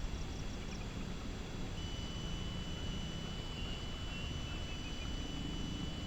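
Wind rumbling on the microphone, with a high, steady insect trill that comes in about two seconds in and a few faint high chirps near the start.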